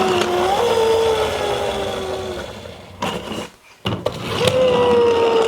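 Toy car's wind-up gear whirring with a rasp as its wheels spin fast: one whine that slowly fades over about two and a half seconds, a couple of sharp clicks, then a second steady whine near the end.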